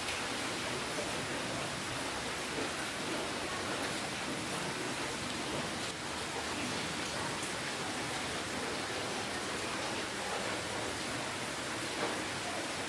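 Steady rainfall, an even hiss of many drops with faint patters of individual drops striking a surface.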